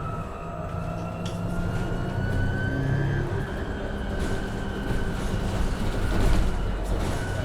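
Inside a moving MAN Lion's City hybrid city bus: the electric drive's whine rising slowly in pitch as the bus picks up speed, then holding steady, over a low rumble, with a few light clicks and rattles.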